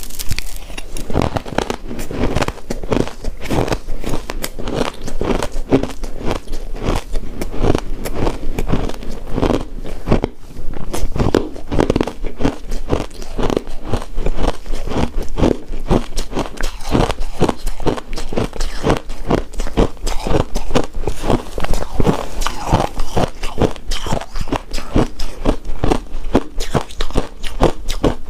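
Close-miked chewing and crunching of shaved ice dessert: a dense, unbroken run of short icy crunches, several a second.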